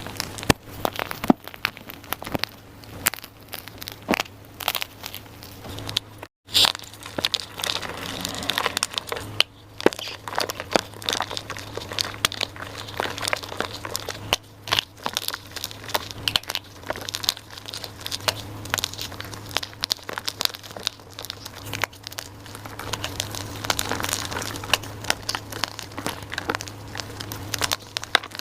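Dyed gym chalk being crushed and crumbled, a dense run of dry crunches and crackles over a faint low hum.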